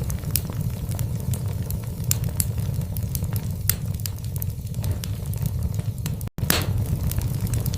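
Wood logs burning in a fireplace: irregular sharp crackles and pops over a steady low rumble of the flames. About six seconds in, the sound cuts out for a split second, as at a loop splice.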